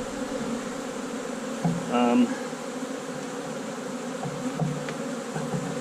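Honey bees buzzing steadily around an open hive of a large, packed colony, with a brief louder swell about two seconds in.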